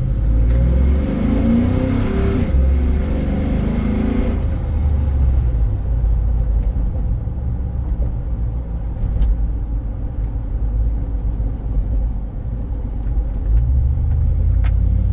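Cammed Chevrolet SSR's 6.0-litre LS2 V8 heard from inside the cabin while driving: a steady low rumble, fuller and busier for the first four seconds or so.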